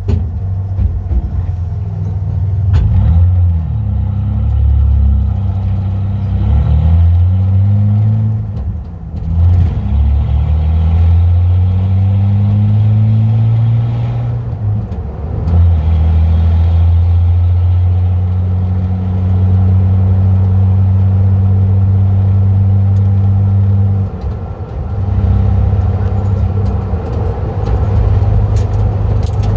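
Exhaust of a 1995 Ford F-150's 4.9-litre 300 inline-six with the muffler deleted, the pipe cut off just behind the catalytic converters, heard from inside the cab. The note is loud. Its pitch rises and drops several times through the first half as the truck accelerates through the gears, then holds steady at a cruise, with a brief dip about three quarters of the way through.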